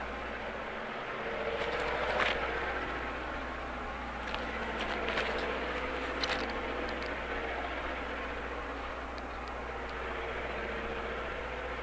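Steady rumble of a train running on the line, with a low hum and a few short sharp metallic squeaks and clanks between about two and seven seconds in.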